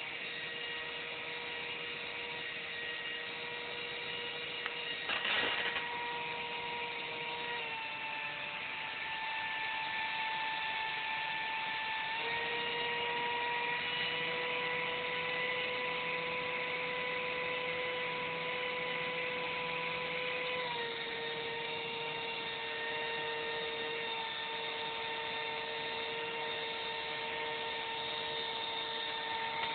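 Small electric motors and propellers of a model VTOL aircraft running with a steady whirring hum. The pitch drops about 8 seconds in, rises about 12 seconds in and drops again about 21 seconds in as the motor speed is changed. There is a short crackle about 5 seconds in.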